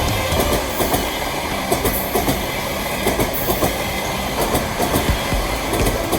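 Train running along the track, a steady rolling noise with wheels clicking rapidly over rail joints.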